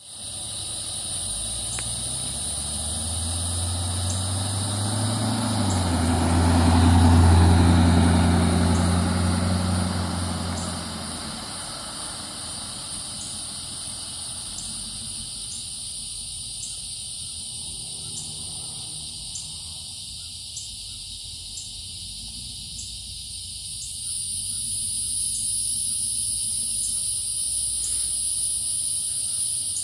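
A motor vehicle's engine grows louder, peaks about seven seconds in and fades away by about twelve seconds in, as from a vehicle passing by. A steady high-pitched insect drone runs underneath.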